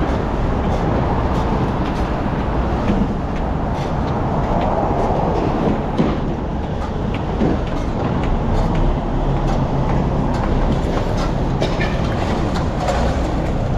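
Rail vehicle running: a steady low rumble with scattered clicks and rattles.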